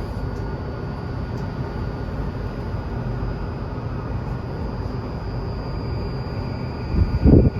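Tokyu 2020 series electric train running at speed, heard from inside the car: a steady rumble of wheels and motors with a faint high whine. A loud low thump sounds near the end.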